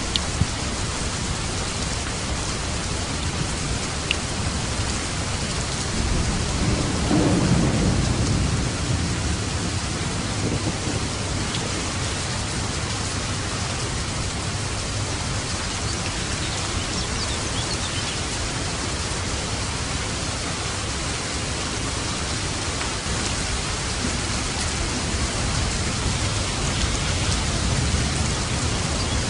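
Steady rain falling, with a low rumble of thunder that swells about six seconds in and fades over a few seconds, and a weaker rumble near the end.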